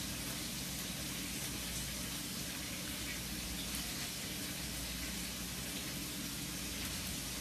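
Chicken frying in hot oil, a steady sizzling hiss with faint crackles, over a steady low hum.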